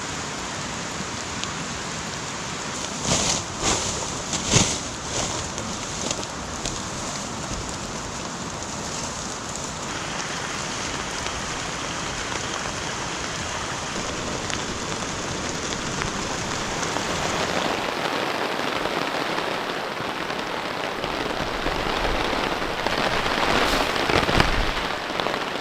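Steady rain falling, with a few sharp taps about three to five seconds in.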